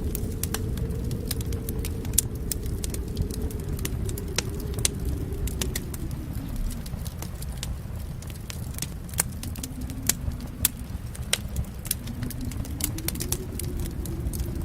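Wood fire crackling, with irregular sharp pops and snaps over a low rumble of flames that swells and fades.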